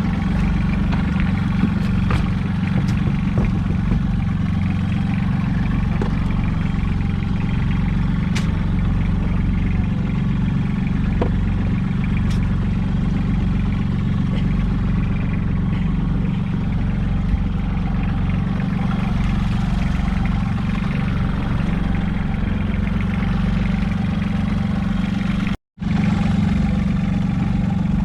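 Small fishing boat's engine running steadily with a constant low hum. The sound cuts out for a moment near the end, then the engine is heard again.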